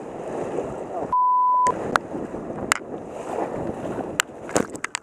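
Rushing river water, broken about a second in by a half-second steady bleep tone that blanks out the rest of the sound like a censor bleep; after it, water noise with a string of sharp knocks and splashes.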